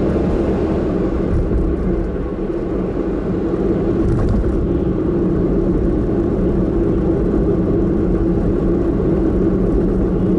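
Car driving, heard from inside the cabin: steady engine and road noise with a low hum.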